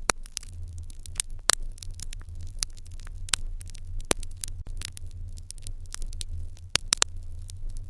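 Fire crackling in an irori hearth: irregular sharp pops and snaps, several a second, with a few louder pops, over a steady low hum.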